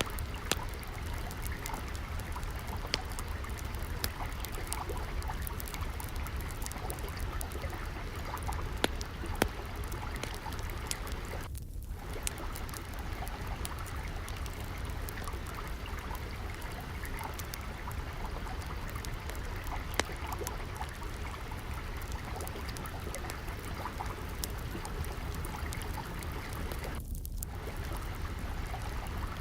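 Steady trickling water with a wood fire crackling over it, sharp pops scattered irregularly throughout.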